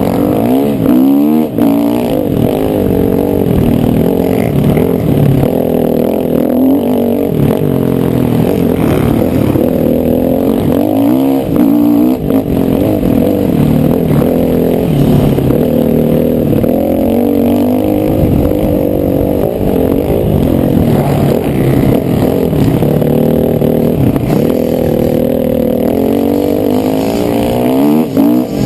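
Motocross bike engine revving hard, its pitch climbing and dropping again and again with throttle and gear changes, with quick up-and-down sweeps several times.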